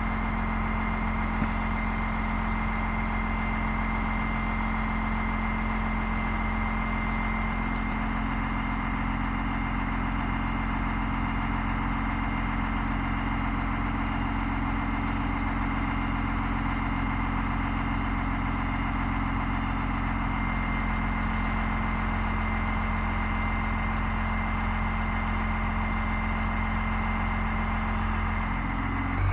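Ford diesel bucket truck engine idling steadily, with a thin, steady high whine over it.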